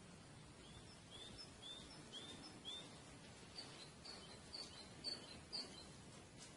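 Faint bird song over quiet outdoor background hiss: a run of five short chirps, about two a second, then a second, higher run of similar chirps in the second half.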